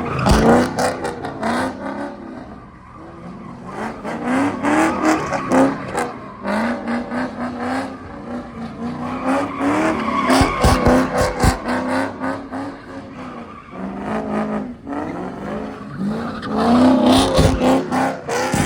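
A car's engine revved hard in repeated surges, pitch climbing and dropping, with tires squealing as the car is driven hard on the pavement. The loudest surges come at the start, about halfway through and near the end.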